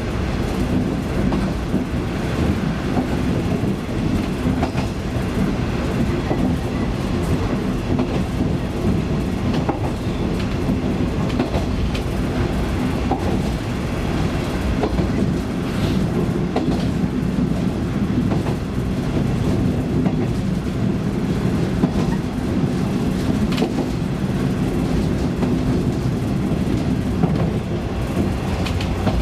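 KiHa 20-series diesel railcar under way, heard from on board: the diesel engine drones steadily under wheel-on-rail running noise, with faint clicks over the rail joints.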